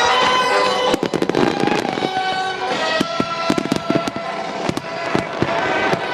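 Fireworks bursting and crackling in quick succession, starting about a second in, over music playing along with the show.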